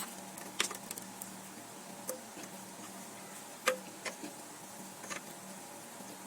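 Scattered light clicks and taps, about one every second, the sharpest a little past halfway, over a steady low hum.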